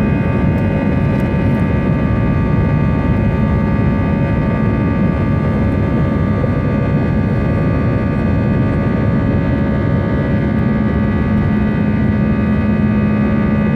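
Airbus A320 jet engines running at high thrust during takeoff or climb, heard from inside the cabin: a steady rush of noise with several steady whining tones above it.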